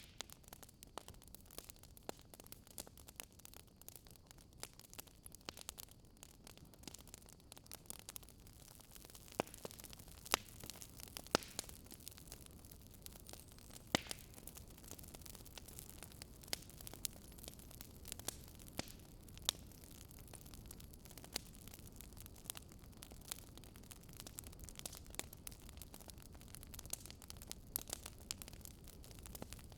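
Fire crackling in a fireplace: frequent irregular snaps and pops, a few louder than the rest, over a steady low background.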